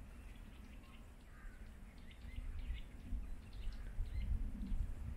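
Birds chirping in short, scattered calls, over wind rumbling on the microphone that grows stronger about halfway through.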